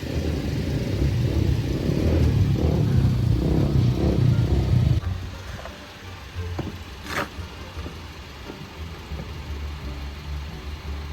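An engine running with a rough, low rumble for about five seconds, then dropping suddenly to a quieter low hum with a few clicks and a sharp snap.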